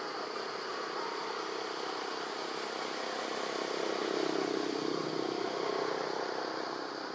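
A motor vehicle's engine passing, growing louder to a peak about four to five seconds in, then fading.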